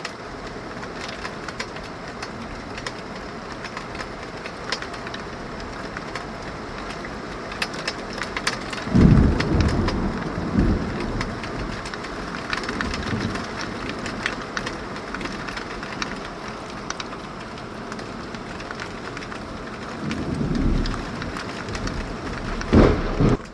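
Heavy tropical rain falling steadily, with many sharp drops striking surfaces. Thunder rolls twice: a loud rumble about nine seconds in and another near the end, with a sharp peak just before the end.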